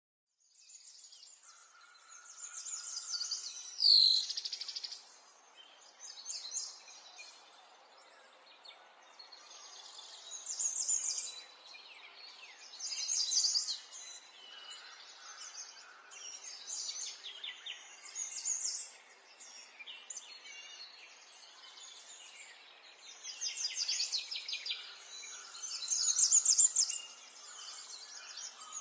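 Songbirds singing: bursts of rapid, high-pitched trills every few seconds over a faint steady background hiss, with one loud falling note about four seconds in.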